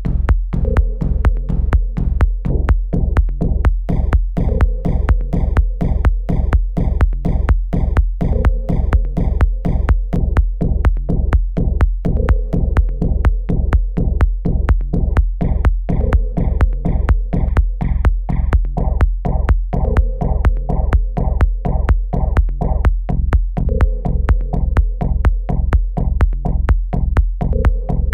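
Electronic music track in progress: a steady drum-machine kick about twice a second under a synth phrase that repeats every few seconds, with a hissy high layer that drops in and out.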